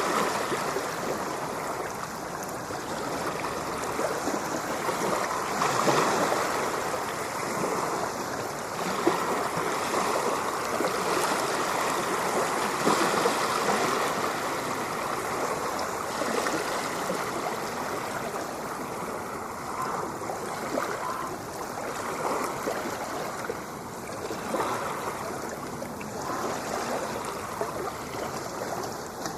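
Ocean surf: a continuous rush of water that swells and eases over several seconds.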